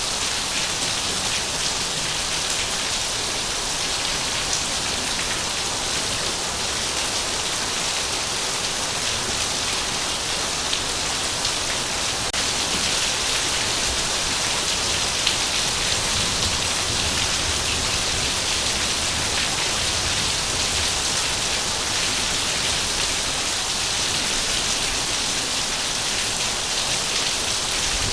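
Heavy rain falling steadily, an even, unbroken hiss, with a faint low rumble in the middle.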